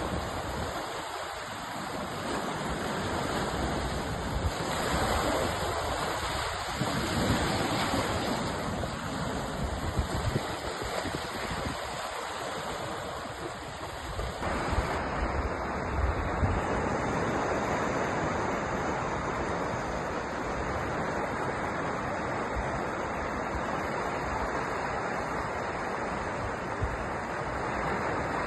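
Sea surf: waves washing in and breaking on the shore, a continuous rushing noise that swells and ebbs.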